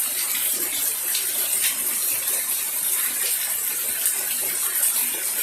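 Steady rain falling, an even hiss with scattered louder drips and drops.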